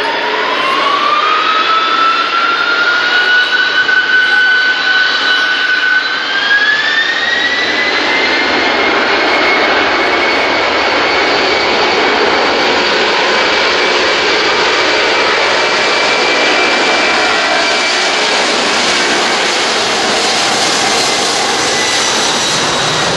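Boeing 767-300's twin turbofan engines spooling up for takeoff. A whine rises in two steps over the first several seconds, then holds with a loud, steady rush at takeoff thrust.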